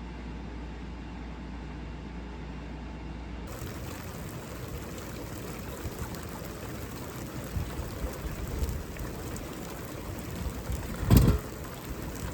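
A steady low hum, then after a cut about three and a half seconds in, rain falling with a steady hiss and scattered patters. One loud thump comes near the end.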